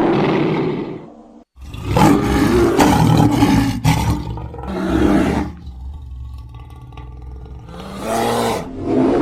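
Cartoon monster roars and growls built from big-cat roars. One roar fades out, and after a short gap a long loud roar lasts about two and a half seconds. A short growl and a quieter low rumbling growl follow, then another short roar near the end.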